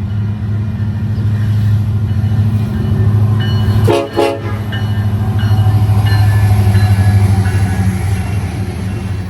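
A train passes, with a steady low diesel engine drone and rail noise, and a train horn sounds. There is a brief break in the sound about four seconds in.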